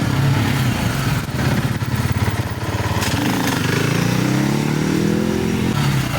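Dirt bike engine running and revving, its pitch climbing steadily for a couple of seconds in the second half, then dropping back just before the end.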